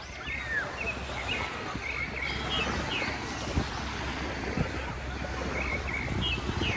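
Steady rush of sea surf and wind at a beach, with short high distant calls and voices scattered throughout.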